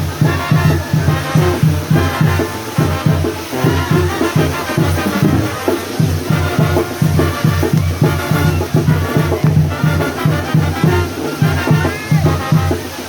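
Brass band music with a steady, pulsing bass beat.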